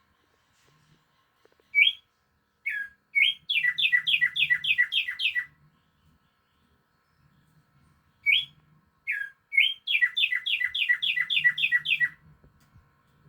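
A songbird sings two phrases a few seconds apart. Each phrase opens with two or three separate rising notes, then runs into a quick string of about nine down-slurred notes.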